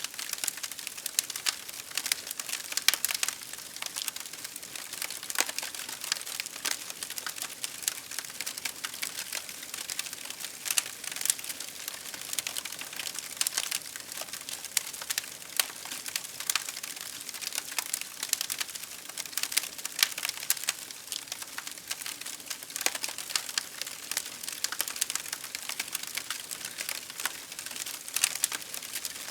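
Wood fire crackling: a dense run of sharp, irregular pops and snaps over a soft steady hiss.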